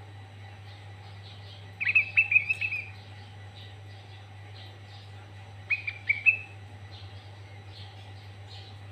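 Sooty-headed bulbul (kutilang) singing: two short bursts of quick, sharp notes running into a brief held phrase, about two seconds in and again near six seconds. Fainter chirping goes on between them over a steady low hum.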